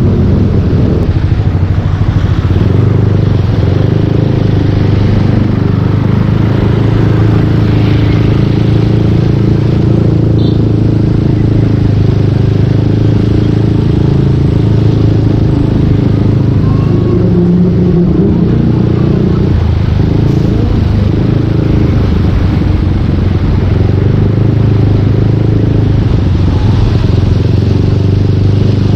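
Yamaha Aerox 155 V2 scooter's single-cylinder engine running through a full Yoshimura exhaust, loud and steady while riding at a fairly even speed, with only small changes in pitch.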